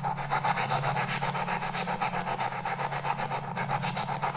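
Ghost-hunting spirit box sweeping through radio stations: rapid, evenly chopped bursts of radio static, about seven a second, over a steady low hum.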